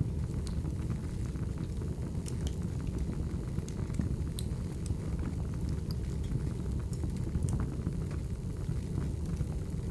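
Crackling wood fire: a steady low rumble of burning logs with scattered sharp pops and crackles.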